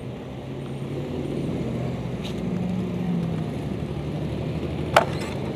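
Motorcycle engine running at a steady, low pitch that rises slightly midway. One sharp click comes near the end.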